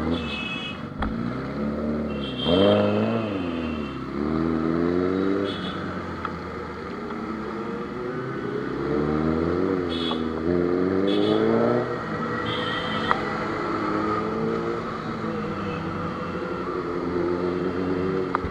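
Superbike engines accelerating and easing off, the engine pitch rising and falling several times.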